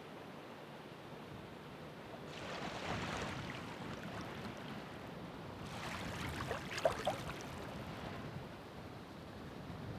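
Ocean surf: two waves break and wash in, one about two seconds in and a louder one around six to seven seconds, each with a fizzing wash of foam over a steady background surf.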